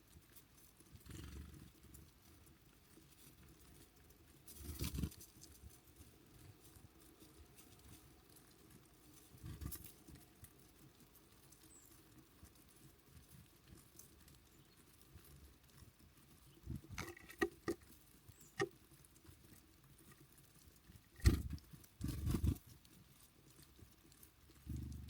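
Irregular taps, clicks and short rustling bursts from small birds at a feeder, with a quick run of ticks about two thirds of the way through, over a quiet outdoor background.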